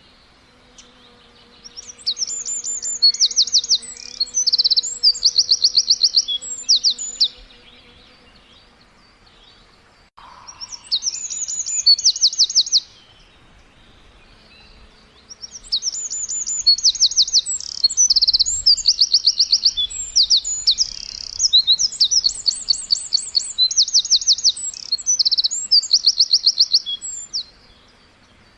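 Birdsong: three long bouts of rapid, high trills and chirps, the first two short and the third much longer, with brief pauses between them.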